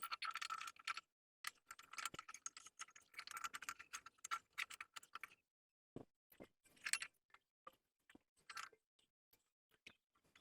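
Faint, irregular clicks and taps of hands working on a mower deck, fitting a new drive belt around its pulleys, with near-silent gaps between them.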